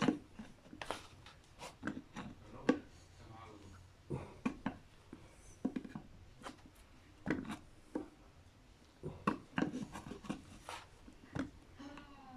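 Irregular clicks, knocks and scrapes of hand tools and metal parts as an old Corvette C3 vacuum brake booster is prised apart by hand.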